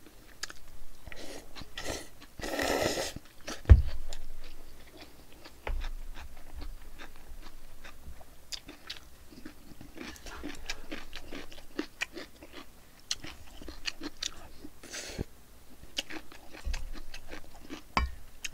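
Close-miked chewing and mouth clicks of a person eating spicy mixed noodles, with a short noisy slurp about three seconds in and a dull knock just after it.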